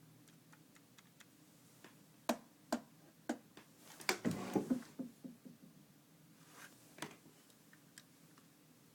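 Scattered light clicks and taps from an African grey parrot working in a desk drawer, with a busier cluster of clicks a little past the middle.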